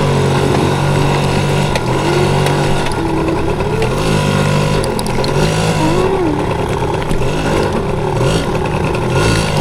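Yamaha PW80's small two-stroke single-cylinder engine being ridden, its revs rising and falling every second or so as the rider works the throttle over rough, slippery ground.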